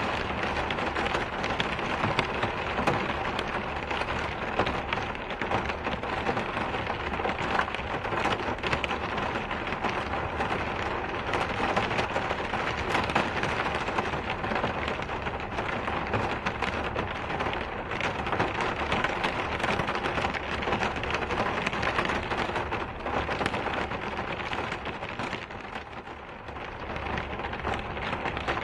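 Steady rain pattering on a surface, a dense even hiss full of fine drop ticks, easing briefly a little before the end.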